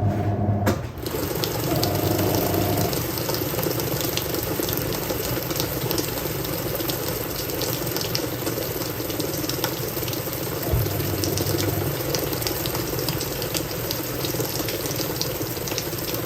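Water pouring into the tub of a Hoover 1400 top-loading washer during its rinse fill, a steady rushing. About a second in, the machine's motor hum cuts off with a click, briefly returns, then leaves only the water.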